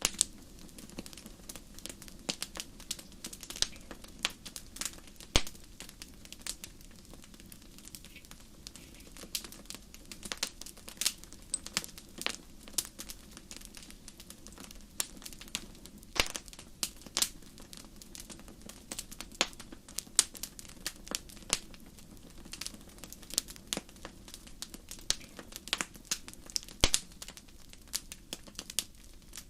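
Fire crackling in a fireplace: irregular sharp pops and snaps over a steady low rush.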